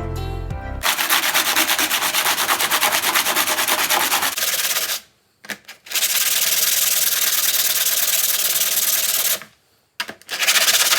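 An abrasive power tool working over rusty vise metal to take off the rust, with a fast, even rattle under the scraping noise. It runs in three stretches, stopping briefly about four and a half seconds in and again near the end. Music plays for the first second.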